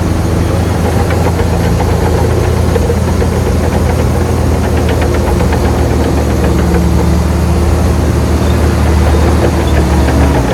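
Heavy diesel engine of earthmoving machinery running steadily at a low pitch, with a light rapid rattle through the middle.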